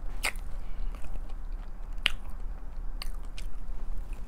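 Close-miked mouth sounds of someone chewing a bite of soft, moist chocolate chip cookie dough cupcake, with a few short wet clicks and smacks.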